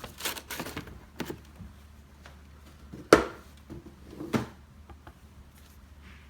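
Handling noise from unboxing a sneaker shoebox: light paper and cardboard rustling with a few scattered knocks, the loudest about three seconds in and another about a second after it.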